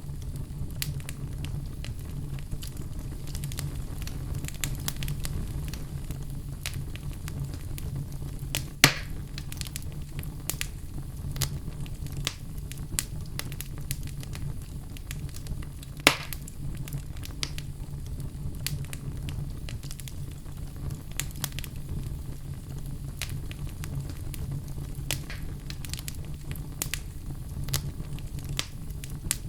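Wood fire burning in a fireplace: a steady low rumble of flame with scattered crackles and pops, two of them much louder, a third of the way in and about halfway through.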